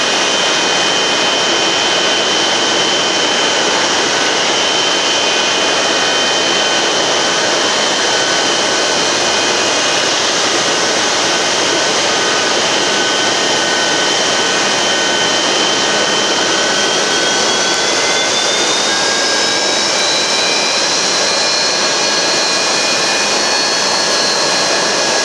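Jet aircraft engine running loud and steady: a high whine over a broad rushing noise. About two-thirds of the way in, the whine slides upward in pitch.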